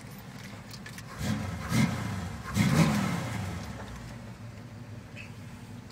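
383 stroker small-block V8 in a 1976 Chevy Nova idling through Flowmaster 40 Series exhaust, revved twice (about a second in and again near three seconds), each rev rising and falling in pitch before settling back to idle.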